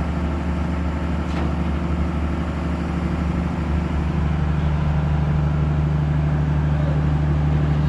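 Heavy vehicle's diesel engine running steadily with a low hum, growing a little stronger about halfway through.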